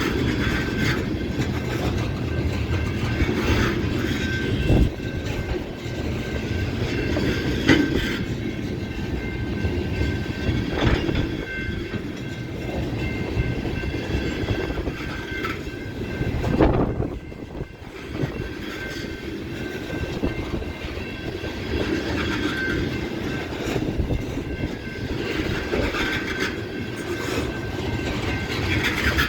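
Freight train cars rolling past, steel wheels clacking and rumbling over the rails, with faint steady high tones above the rumble.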